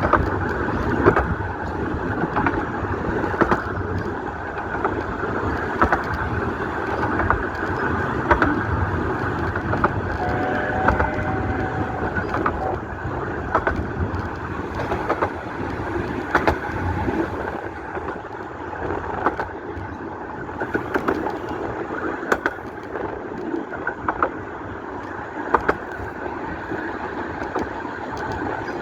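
A 15-inch-gauge miniature train on the Romney, Hythe & Dymchurch Railway running along, a steady rumble broken by frequent sharp clicks about once a second. A brief faint two-note tone sounds about ten seconds in.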